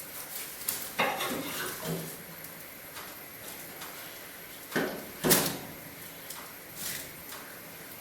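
Knocks and clatter at a cast-iron fireplace insert as it is stoked with firewood: a clunk about a second in, then two sharp knocks near the middle, the second the loudest.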